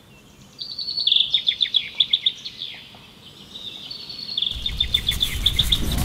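A songbird chirping in quick runs of short high notes. About four and a half seconds in, a low rushing noise swells up beneath it.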